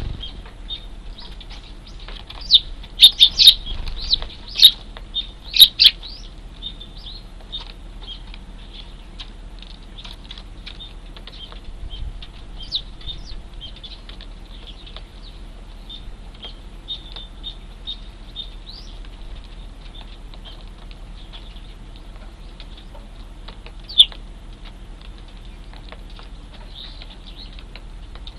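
Juvenile Eurasian tree sparrows chirping: a quick run of loud chirps in the first few seconds, then softer, near-continuous chirping, with one loud chirp near the end.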